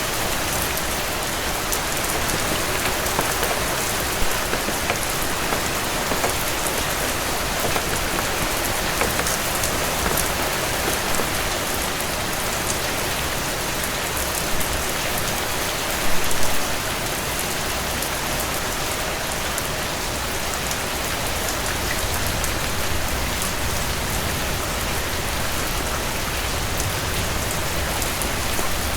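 Heavy rain falling steadily. A few short, sharper louder sounds stand out over it, the biggest about sixteen seconds in.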